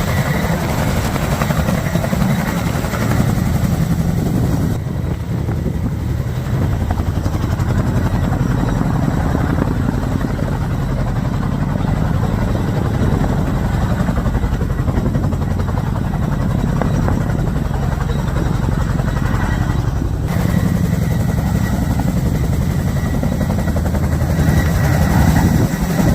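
Boeing CH-47 Chinook tandem-rotor helicopter running at take-off power, a loud continuous drone with rapid rotor beating. Partway through, the upper hiss of the noise drops away for a stretch and then returns.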